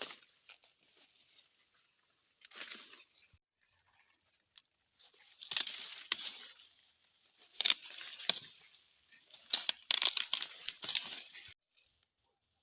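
Wild fruit being torn open and crunched: crisp tearing and crackling in four bouts, the later ones loudest, ending sharply near the end.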